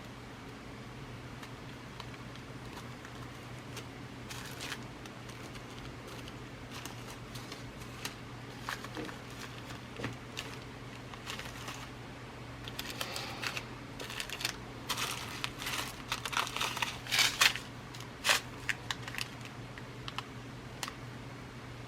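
Glass seed beads being rummaged through by hand: scattered light clicks and rustles, sparse at first and busiest about two-thirds of the way in.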